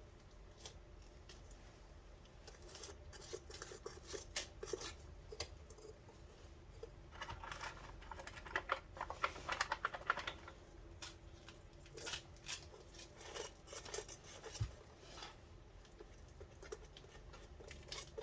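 Electrical tape being peeled off a glued filter: scattered small clicks and scratches, with a denser stretch of crackly tearing about seven to ten seconds in.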